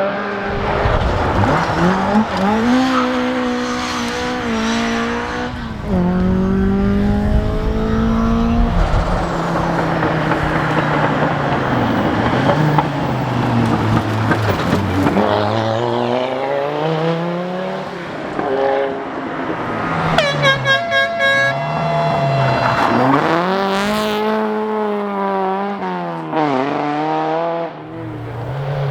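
Rally car engines revving hard, the pitch climbing through each gear and dropping at the shifts as the cars accelerate past, one after another. About twenty seconds in there is a brief rapid stuttering sound.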